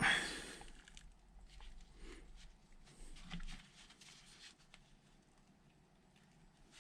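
A short scrape right at the start, then scattered faint clicks and light taps of hand tools working on a heavy battery cable, dying away about four and a half seconds in.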